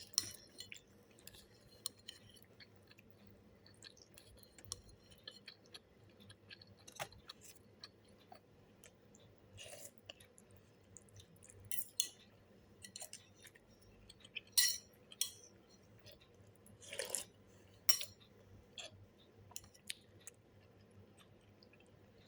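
A person eating a bowl of beef noodle soup: soft chewing and eating noises with scattered light clicks and clinks of utensils against the bowl, coming every second or two.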